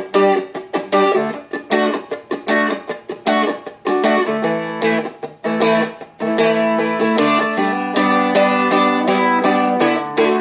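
Seagull Merlin strummed in a reggae rhythm. For the first six seconds the strums are short, choppy and cut off quickly. About six seconds in they change to fuller strums whose chords ring on, where the verse moves into the chorus.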